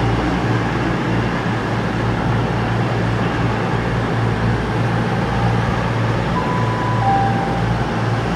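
CrossCountry Voyager diesel multiple unit running past the platform. Its underfloor diesel engines and wheels on the rails make a steady, low drone, with a faint high squeal briefly near the end.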